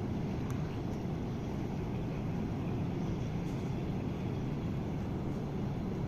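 Steady low rumble of a container ship's engines and machinery during berthing.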